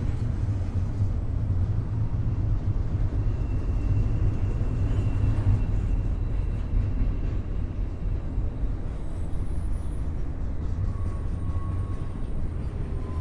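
Double-stack intermodal freight train rolling past: a steady low rumble of wheels on rail, with a few faint, thin high-pitched squeals now and then.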